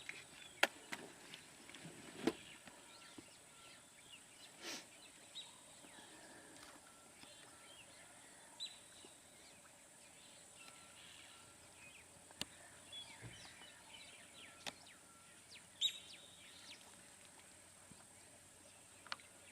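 Faint outdoor ambience of wild birds giving scattered short chirps and calls over a steady high-pitched hiss, broken by a few sharp clicks and knocks.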